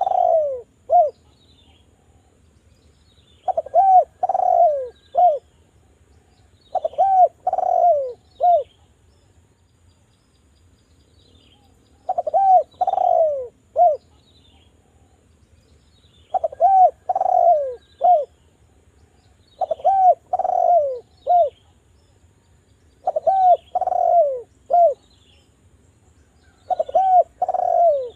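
Derkuku (Sunda collared dove) cooing: phrases of three or four arched coos, each phrase repeated every few seconds with a longer pause near the middle. Faint chirps of small birds sound in the background.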